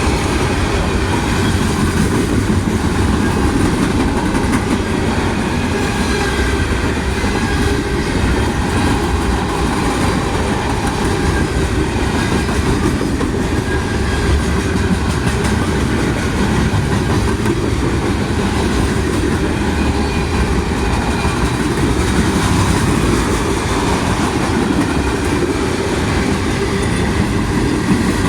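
Freight train cars rolling past at close range: a steady rumble with the wheels clacking over the rail joints.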